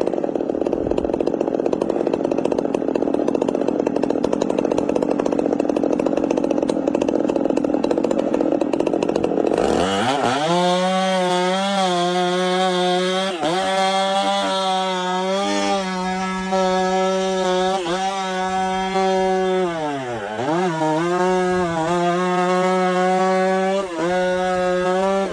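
Two-stroke chainsaw running at high revs while cutting into a tree trunk. For about the first ten seconds the sound is rough and dense. After that it becomes a clear, steady high-pitched engine note with a few brief dips in speed, the deepest about twenty seconds in.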